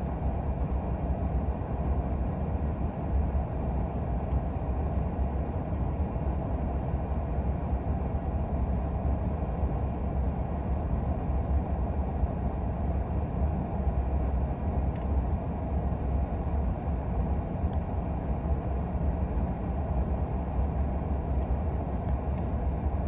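Steady low rumble of an idling vehicle engine, even throughout.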